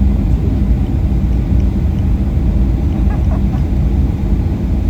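Steady low rumble in the passenger cabin of a Boeing 737-800 taxiing after landing, with its CFM56-7B engines at idle and a steady hum underneath.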